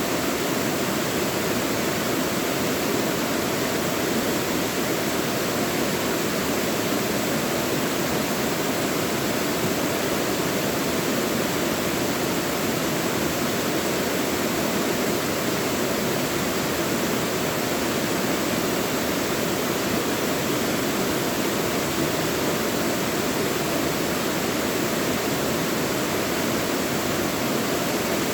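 Mountain valley stream water rushing and splashing over rocks, a steady continuous flow with no change.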